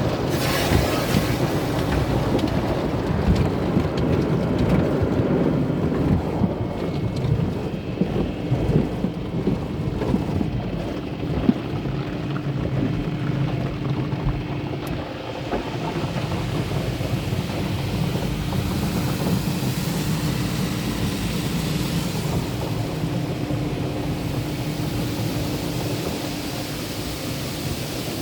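MacNeil tunnel car wash equipment working over a car, heard from inside the cabin: a steady rush of water spray and brushes drumming on the body, with a low rumble. A faint steady hum joins in about a third of the way through and fades near the end.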